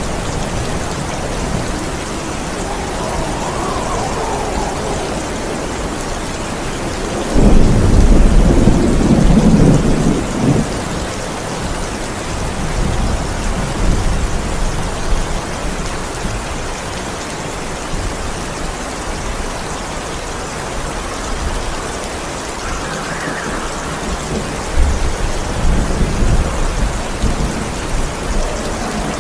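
Steady heavy rain with rolling thunder. A loud, deep thunder clap breaks in about a quarter of the way through and rumbles for a few seconds, and softer rumbles come and go later on.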